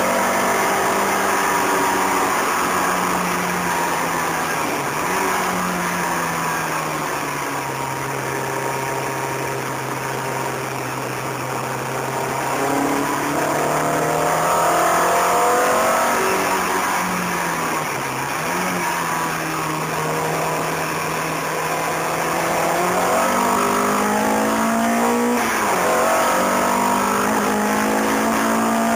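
Car engine driven hard around a circuit, heard from inside the car over road and wind noise. The engine note drops sharply at gear changes about 5 and 18 seconds in, runs lower through a stretch in the middle, and climbs again as the car accelerates near the end.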